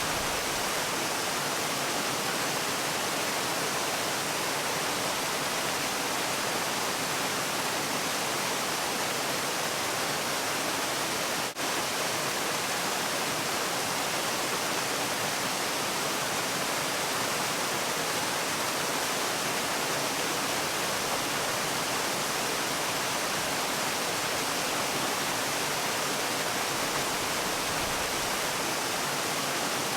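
Waterfall: a steady, even rush of falling water, with one momentary dip in level about a third of the way through.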